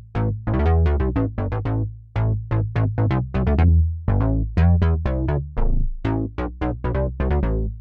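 Sequential Take 5 analog synthesizer playing a preset: a fast run of short plucked notes, several a second, over a held low bass.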